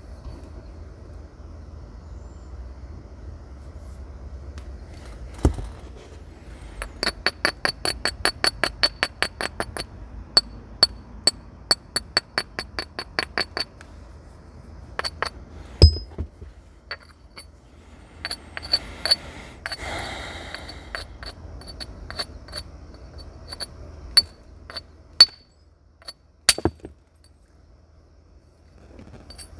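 Flint being knapped with natural tools: a quick run of light taps on the stone, about six a second, each with a high glassy ring, then slower taps. A few heavier single strikes and a brief scrape, as of the edge being abraded, are scattered through.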